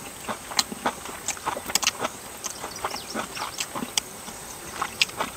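Wood fire crackling: irregular sharp pops and clicks, a few every second.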